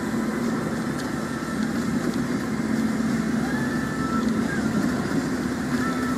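Car driving on a highway in heavy rain: a steady drone of engine and tyres on the wet road with the hiss of rain, and a faint click about a second in.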